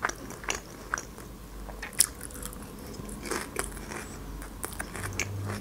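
Close-miked chewing of a mouthful of Caesar salad lettuce, a series of small crisp crunches with the loudest about two seconds in.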